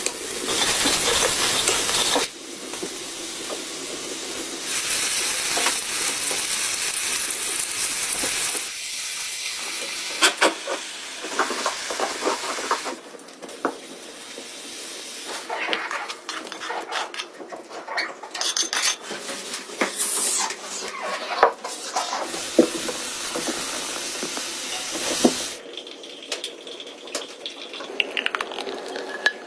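Pancakes sizzling as they fry in a hot pan, the hiss coming in stretches. Scattered clinks and scrapes of a utensil against the pan.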